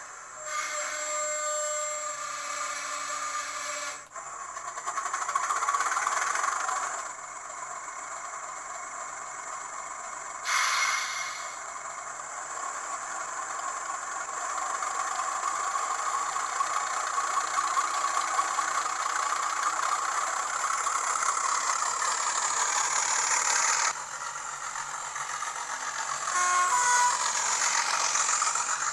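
A Hornby TTS sound decoder in an N gauge Class 25 model locomotive plays its recorded Sulzer diesel engine sound through the model's tiny speaker as it runs. Short louder effects break in near the start, about ten seconds in and near the end.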